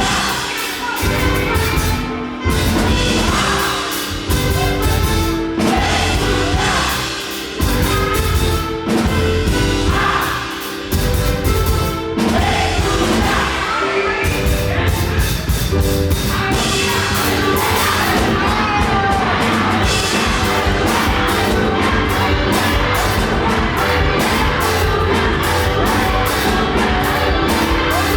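Live gospel praise music: a band and singers performing fast worship with a crowd singing and cheering along. Through the first half the band plays in stop-start hits with short breaks, then settles into a continuous fast beat from about halfway.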